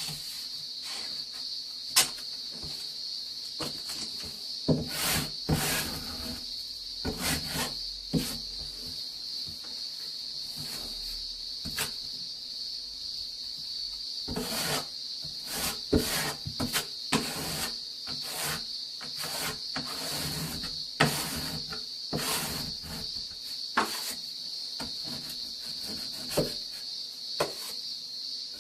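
A scraper blade spreading and smoothing base coat compound over a bathroom plaster join, in many short, irregular scraping strokes. A steady high hiss runs behind it.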